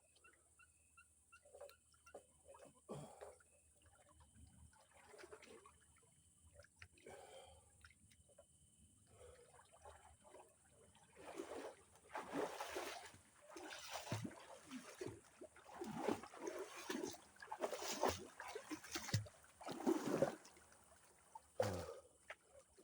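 Water splashing and sloshing as a person swims. Small, scattered splashes at first, then about halfway in a run of repeated splashes, one or two a second, like swimming strokes.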